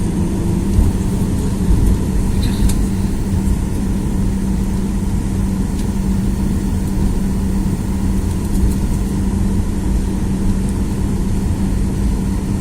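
Cabin noise inside a Boeing 737-800 taxiing: its CFM56 engines running steadily at low taxi power, a constant hum over a low rumble.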